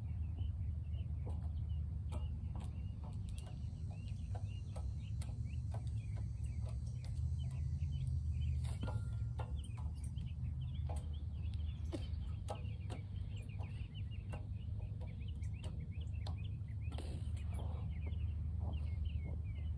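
Many birds chirping continuously over a steady low rumble of wind on the microphone, with scattered clicks.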